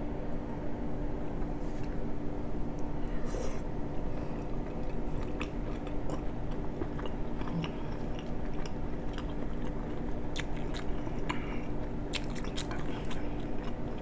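A person chewing a mouthful of spicy seafood-boil shrimp, with short wet mouth clicks and smacks that come more often in the second half, over a steady low hum.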